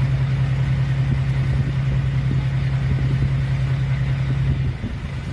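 An engine idling steadily with a low, even hum; the main low note drops away shortly before the end.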